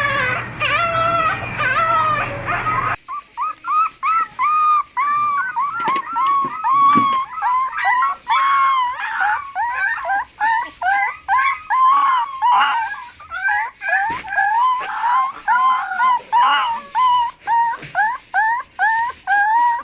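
Dogs whining and whimpering. Long, wavering whines over a steady hum for the first three seconds, then an abrupt cut to a rapid run of short, high whimpers, about two a second and sometimes overlapping.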